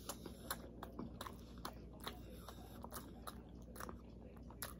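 A person chewing a mouthful of food with the mouth closed: faint, irregular wet mouth clicks a few times a second.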